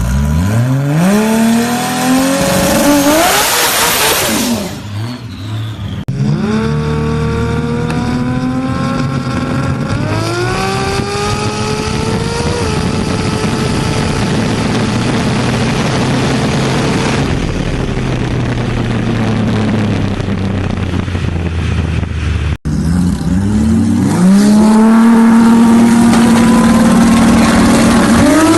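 Big-turbo Toyota Supra engine accelerating hard, its pitch climbing through several gears with brief dips at the shifts, then holding a steady high pitch. About four seconds in there is a loud rush of noise. The sound breaks off abruptly twice.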